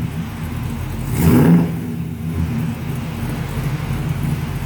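1971 Chevrolet Chevelle engine running through its newly finished exhaust, blipped once to a short rev a little over a second in, then settling back to a steady idle.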